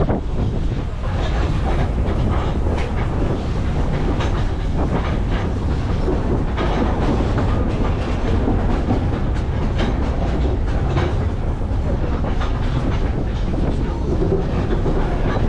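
Double-decker sightseeing train rolling along the rails, heard from aboard: a steady low rumble with a run of irregular clicks and clacks from the wheels over the track.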